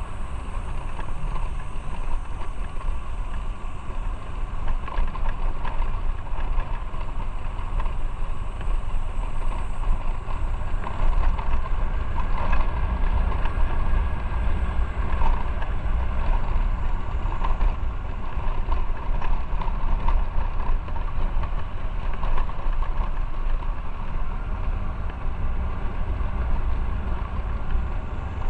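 Motorcycle running steadily on the road: a continuous low rumble of engine and road noise with no sharp changes.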